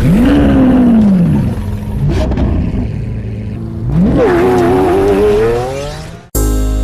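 A sports car engine revving: the pitch swings up and back down over the first two seconds, then about four seconds in it jumps up again and climbs steadily as the car accelerates, cutting off abruptly near the end.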